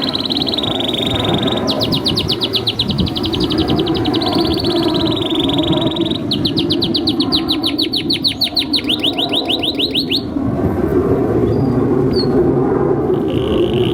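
Domestic canary singing: held notes and fast repeated-note trills. It pauses about ten seconds in and starts again near the end, over a steady low background noise.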